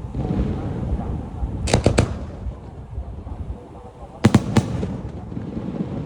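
Fireworks going off: sharp bangs in quick groups, about three in a row near two seconds in and another two or three a little past four seconds, over a continuous low rumble.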